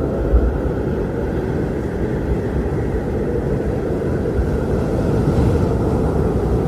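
Strong blizzard wind blowing steadily as a dense, low rumbling rush, with a brief gust swell about half a second in and a stronger stretch a little past the middle.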